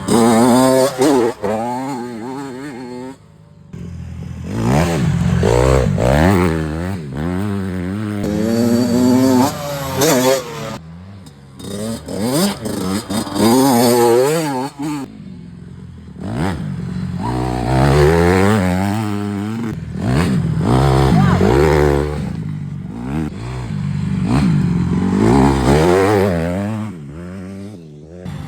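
Dirt bike engine revving up and easing off several times as it is ridden, each rise in pitch followed by a drop.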